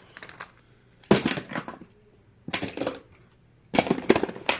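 Small plastic fidget toys clattering and rattling against each other as they are rummaged through by hand, in three bursts.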